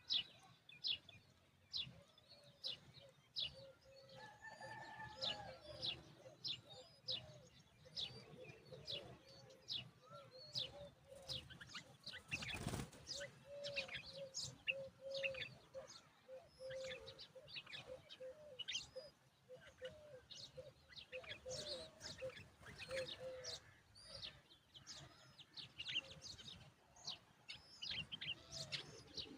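Himalayan bulbuls chirping: short, high chirps repeated about once a second, with a single thump about halfway through.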